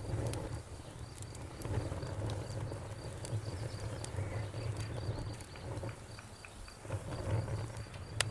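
Wood fire crackling, with scattered sharp pops over a low rumble. A cricket chirps throughout in a rapid, even pulse.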